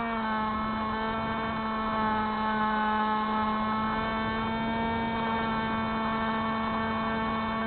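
Electric motor and propeller of a Spyhawk FPV model plane running at steady throttle: a constant whine with many overtones.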